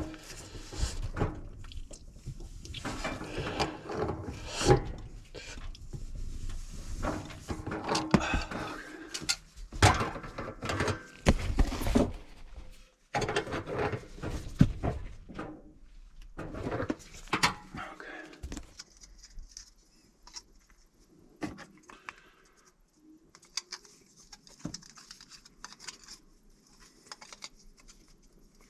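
Work handling noises: knocks, thuds and scraping or rubbing, busy through the first two-thirds, then quieter with occasional light taps over a faint steady hum.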